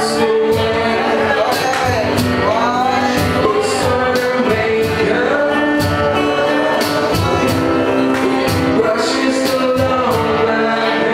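Live rock band playing a song, with a singer's voice over sustained guitar and keyboard tones and a steady drumbeat.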